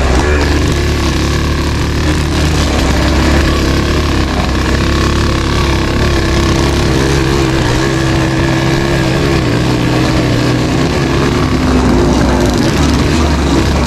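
Suzuki AX 100's two-stroke single-cylinder engine running hard at full throttle, its pitch wavering up and down as the revs rise and fall.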